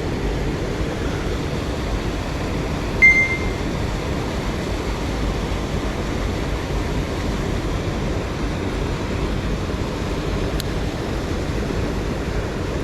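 Steady rush of a mountain stream's flowing water. About three seconds in, a single short high-pitched tone rings over it.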